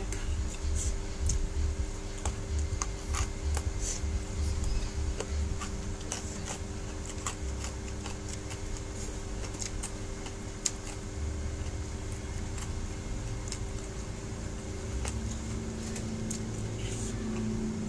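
Close-miked eating sounds: a mouthful of fried rice vermicelli being chewed, with scattered small clicks, over a steady low hum.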